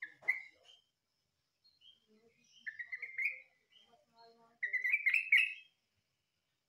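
Yellow-vented bulbul (trucukan) singing in bubbly, rippling phrases: a short burst at the start, then two longer phrases about two and a half and four and a half seconds in, with faint short chirps between. A brief click comes at the very start.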